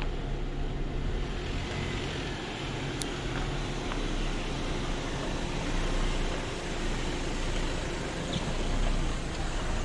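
Jeep engine running steadily at low revs, a low even hum under a wash of vehicle noise, with a faint click about three seconds in.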